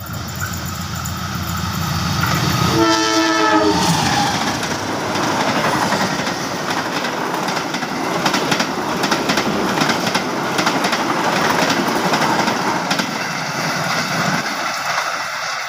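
The KA Taksaka passenger train, a diesel locomotive hauling coaches, passes close by. The engine rumble builds, then one horn blast of about a second sounds about three seconds in, its pitch sliding down as the locomotive goes past. The coaches' wheels then clatter rhythmically over the rail joints, fading near the end as the train pulls away.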